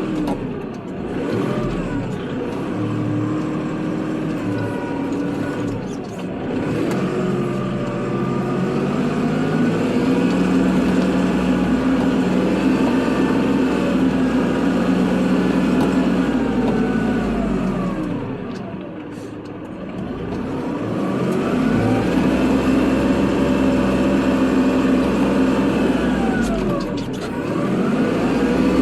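Kubota tractor's diesel engine running steadily under load, its pitch dipping sharply and climbing back twice, once about two-thirds of the way through and again near the end.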